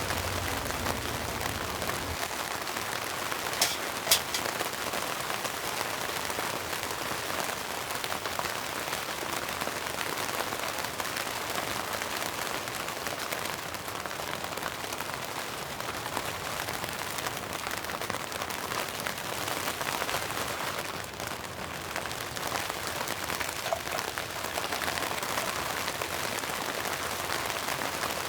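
Steady rain falling, an even hiss of drops, with two sharp taps about four seconds in.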